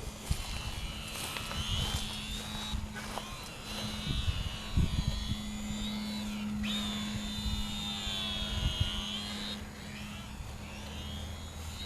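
Electric motor and propeller of a HobbyZone Carbon Cub S2 RC airplane in flight, a high whine whose pitch rises and falls and drops away a few times as the throttle is cut and reopened. A steady low hum and wind rumble on the microphone lie underneath.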